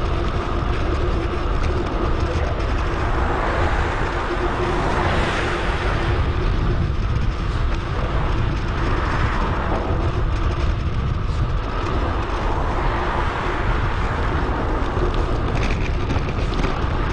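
Steady wind rush and rumble on an action camera's microphone while cycling, mixed with road and tyre noise, played back sped up. Broader swells of noise come and go a few times, like vehicles passing.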